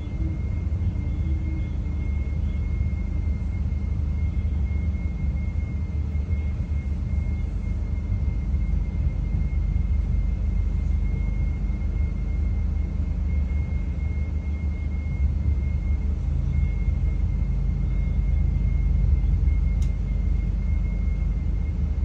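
Steady low rumble of a moving train heard from inside a passenger carriage, with a thin steady high whine running over it.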